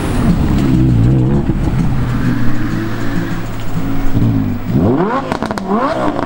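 Novitec Torado Lamborghini Huracán's V10 engine pulling away at low, wavering revs, then close to five seconds in the revs rise sharply twice as it accelerates hard, with a brief crackle between the two rises.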